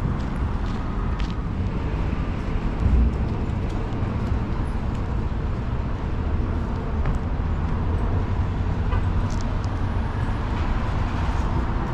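Downtown city street: a steady rumble of road traffic with cars passing, one a little louder about three seconds in, and small scattered clicks and knocks from the street.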